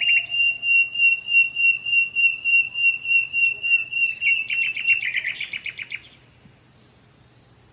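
Bird song: a high, rapidly pulsing note repeated about four times a second, breaking into a fast trill, then stopping about six seconds in, leaving only a faint steady high hum.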